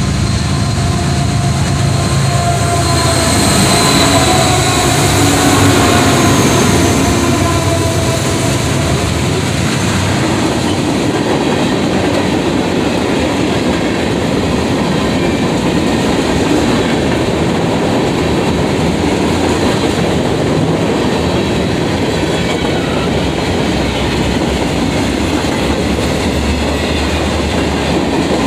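A diesel-hauled freight train passing close by: the locomotives' engines are heard in the first few seconds, then a long line of freight cars rolls past with a steady rumble and clickety-clack of wheels over the rail joints. Thin high wheel squeal rings out from about three to nine seconds in.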